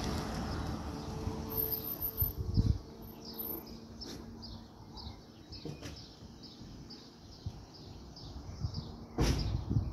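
A small songbird calling a steady string of short high chirps, about two a second. A low rushing noise fades over the first few seconds, and a loud low thump comes near the end.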